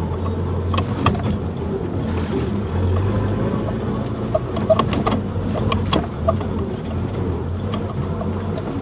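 Suzuki Jimny running in low gear over a rough forest track, a steady low engine drone with several sharp knocks and clatters from the vehicle jolting over the ground.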